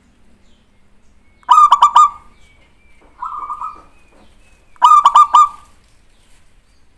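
Zebra dove (perkutut) cooing: three short bursts of rapid staccato coos, loud about a second and a half in and again near five seconds, with a quieter burst between them.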